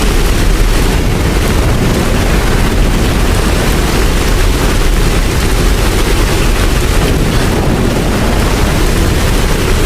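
Steady rain falling without a break, with a deep continuous rumble underneath.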